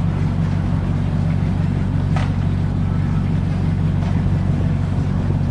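Single diesel inboard engine of a Mainship 400 trawler running steadily at idle while docking, with a short high squeak that falls in pitch about two seconds in.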